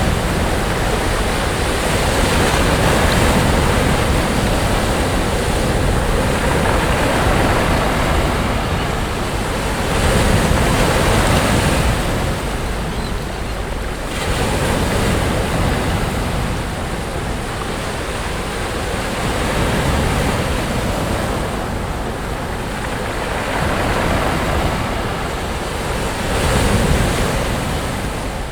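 Sea waves breaking and washing up the beach, the surf swelling and easing every few seconds.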